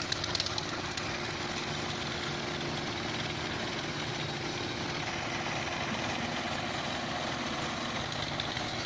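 Engine of heavy construction machinery (concrete mixer truck or crane) running steadily at a constant speed, with the mixer and lifting work going on.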